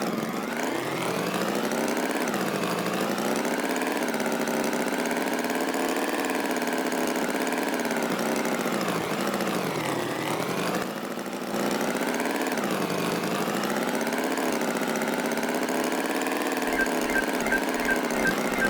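Tractor engine running, its pitch rising and falling as the revs change, with a brief drop about eleven seconds in. Near the end a steady musical beat comes in over it.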